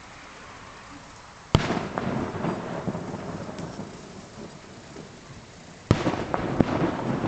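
Distant aerial firework shells bursting, two sharp bangs about four seconds apart, each followed by a long rolling rumble and crackle as the sound echoes back off hills.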